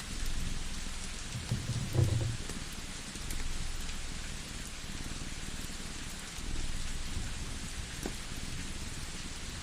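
Layered fireside ambience: a constant crackling hiss with scattered small pops. Under it, a low pulsing purr-like rumble swells roughly every three seconds, and a louder low thump comes about two seconds in.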